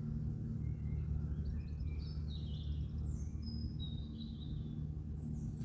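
A songbird singing a run of short, high whistled phrases, several falling in pitch, over a steady low hum.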